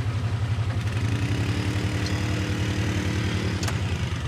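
Off-road vehicle engine idling close by with a steady, fast, even pulse. From about a second in, a fainter, higher engine note from a second machine joins in and fades out near the end.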